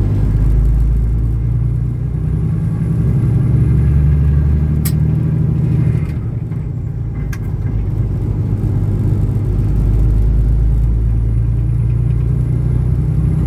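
Semi truck's diesel engine and road noise droning steadily from inside the cab while driving, swelling and easing slightly. Two short clicks about five and seven seconds in.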